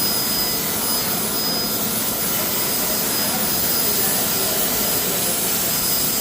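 Steady whooshing rush of a running machine, like a large blower, with a faint high whine over it and no change in level.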